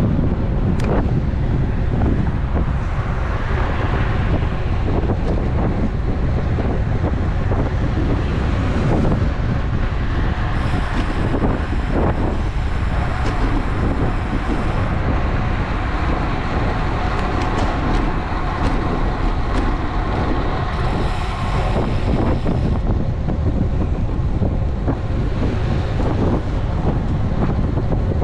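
Steady wind rush buffeting the microphone of a bike-mounted GoPro on a moving road bike, with road noise under it. A faint humming tone comes in for several seconds midway.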